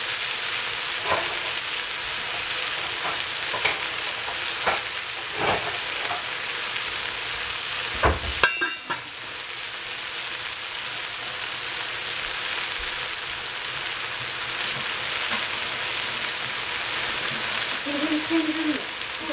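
Rice, mushrooms and greens frying in a hot pan, sizzling steadily, with a few sharp knocks of a utensil against the pan, the loudest about eight seconds in.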